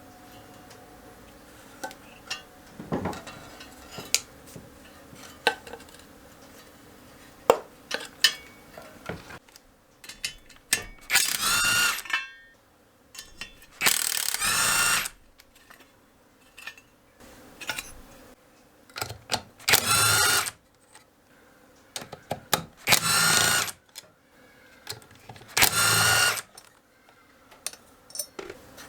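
Power drill running in five short bursts of about a second each, with a pitched motor whine, between sharp clicks and taps of tools and metal parts being handled.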